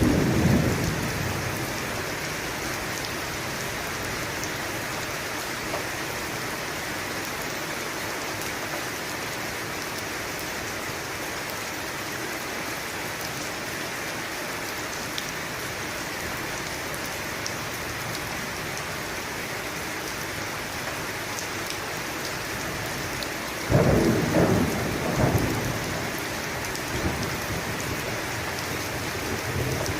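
Steady heavy rain with thunder: a rumble fading away at the start, then a sudden loud thunderclap about 24 seconds in that rolls on and dies away over a few seconds.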